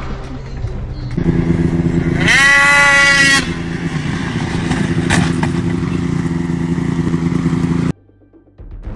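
A vehicle engine drone, with a loud pitched blare that rises briefly and then holds for about a second, starting about two seconds in; the sound cuts off abruptly near the end.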